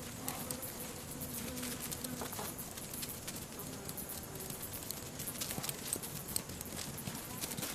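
A swarm of safari ants raiding termites: a dense, irregular patter of tiny clicks and scratches, with a faint intermittent hum under it.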